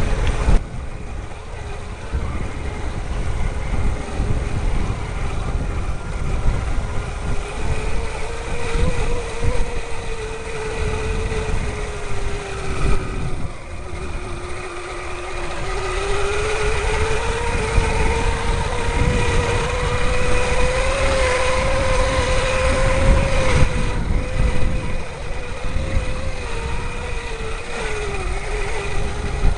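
Electric bike's Astro motor whining under power as it is ridden, its pitch sagging about halfway through, climbing again and dipping near the end as speed changes, over a steady low rumble.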